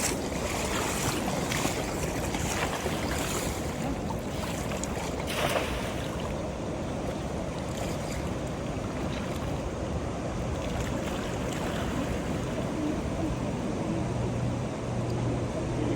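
Steady rush of water with wind noise on the microphone. A few brief bursts of noise come in the first six seconds, and a low steady hum joins in near the end.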